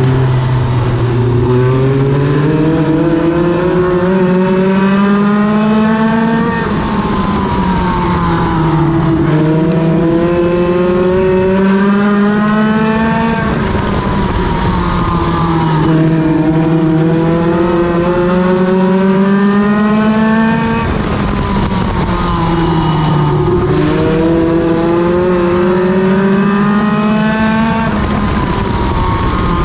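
NEMA Lite midget race car engine at racing speed on the oval, its pitch climbing for several seconds along each straight and dropping as it lifts for each turn, about every seven seconds.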